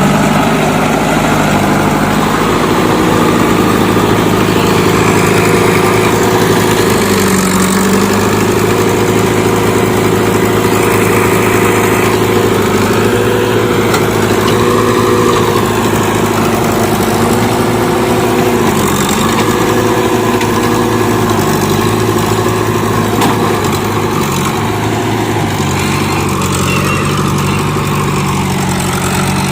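Diesel engine of heavy machinery running steadily, close and loud, its pitch dipping slightly and recovering several times.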